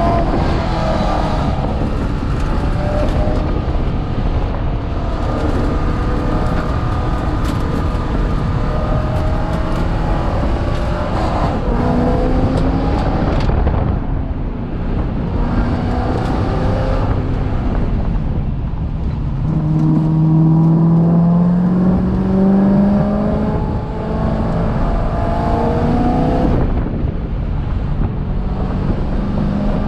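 C6 Corvette race car's V8 engine heard from inside the car at speed on track, revving up repeatedly with the pitch dropping at each gear change. It eases off briefly twice, and its loudest long pull comes about two-thirds of the way through.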